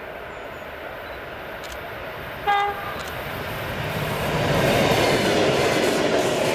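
Train approaching on the line, its wheel and rail noise growing steadily louder. About two and a half seconds in it gives one short single-tone horn blast.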